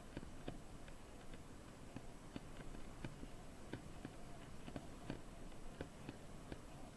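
Light, irregular clicks and ticks from a bicycle in motion, a few a second, over a low steady rumble.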